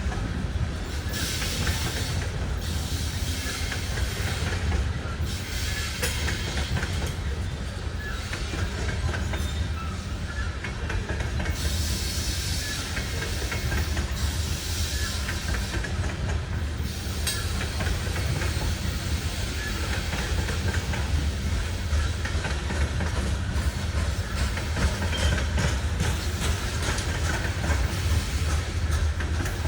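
Loaded coal hopper cars of a long unit freight train rolling past on the rails. A steady low rumble of wheels on track runs under a higher rail noise that swells and fades every few seconds.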